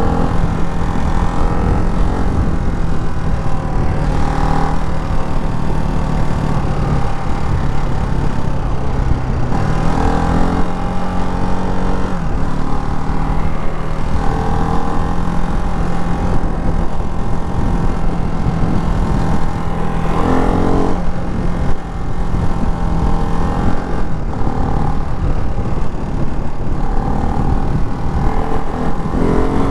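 Ducati Hypermotard 698 Mono's single-cylinder engine running under way, holding a steady note, with the revs rising in short sweeps a few times (about ten seconds in, again around twenty seconds, and near the end). The engine is still being run in, so it is kept to moderate revs.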